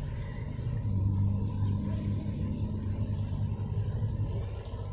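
A motor vehicle's engine running with a steady low hum. It swells about a second in and eases off near the end.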